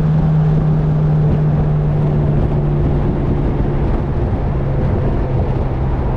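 Track car's engine running at a steady low speed with road and wind rumble, its drone dropping slowly in pitch as the car eases off.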